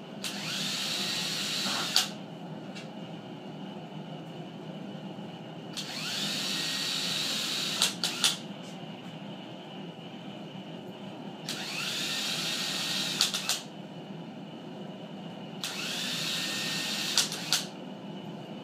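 Power drill driving coarse-thread Phillips pan-head tapping screws through linear rails into MDF, four times. Each run spins up with a rising whine, holds for about two seconds and ends with a couple of sharp clicks.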